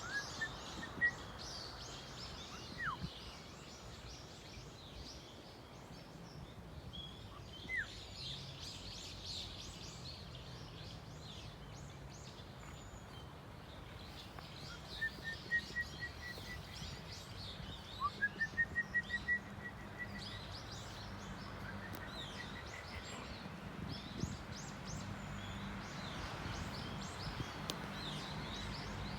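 Forest birds calling and singing: many short high chirps, a couple of falling whistles, and three quick strings of repeated whistled notes from about halfway through, over a steady low hum.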